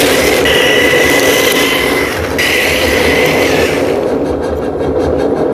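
A train running past: a loud, steady rushing rumble with a high whine that breaks off and comes back a few times, the hiss of the upper part fading about four seconds in.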